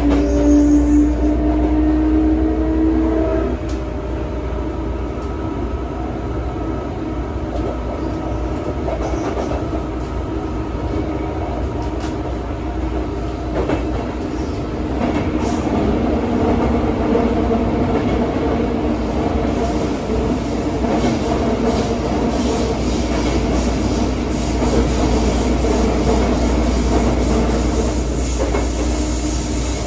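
Running sound inside a Sotetsu 9000 series electric train car: a rising motor whine for the first few seconds that then stops, followed by steady rumble of the wheels on the rails with scattered clicks over rail joints.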